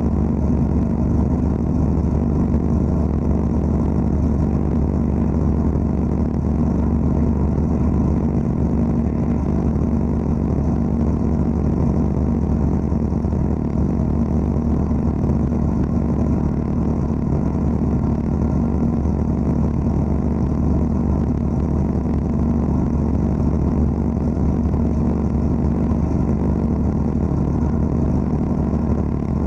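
Wet abrasive (aquablasting) cabinet running continuously while cleaning an engine block: a steady, loud machine drone with a strong low hum and no breaks.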